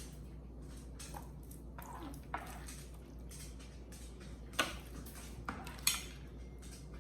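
Light kitchen clatter: a few scattered knocks and clinks as chopped vegetables and utensils are handled into a food processor bowl, with no motor running.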